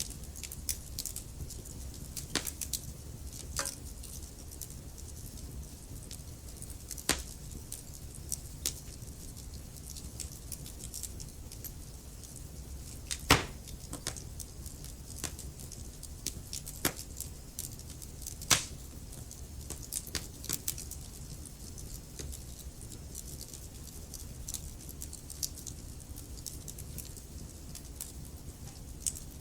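Wood fire crackling in a fireplace: irregular sharp pops and snaps over a low, steady rumble of the burning logs, with the strongest pops about 13 and 18 seconds in.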